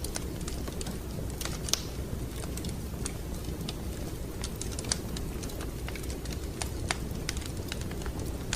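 Wood fire crackling in a fireplace: irregular sharp pops and snaps over a steady low rumble, with louder pops about two, five and seven seconds in.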